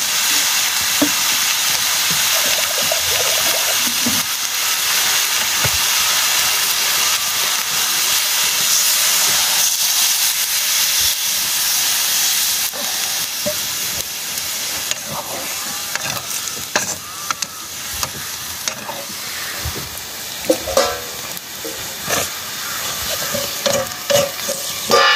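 Food frying in oil in a pan, a steady sizzle that weakens about halfway through. Near the end come a few clinks and knocks of steel utensils against the pan.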